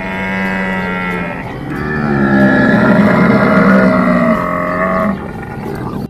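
Camel calling: two long calls, the first about a second long and the second about three seconds long.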